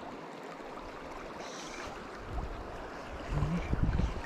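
Steady rush of river current, with a few low thuds in the last second or so.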